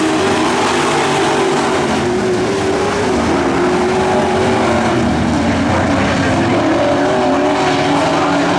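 Dirt-track race truck engines running hard as a pack of trucks races around the oval, several engine notes overlapping and wavering up and down in pitch.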